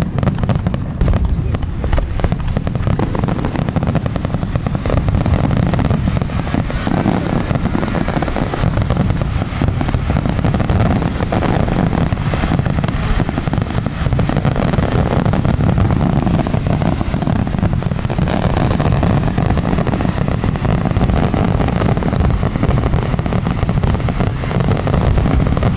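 Fireworks display going off continuously, with overlapping bursts and crackles packed close together and no pause.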